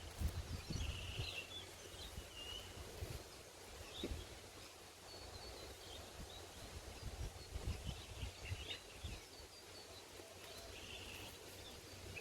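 Quiet outdoor ambience with a low, uneven rumble on the microphone and a few short, faint bird chirps now and then.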